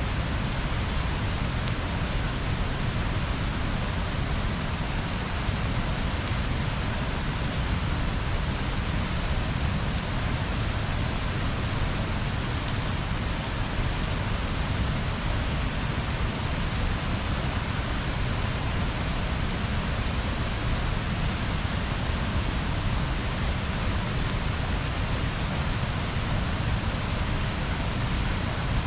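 Bonfire burning with a steady rushing hiss and low rumble, with almost no distinct crackles or pops.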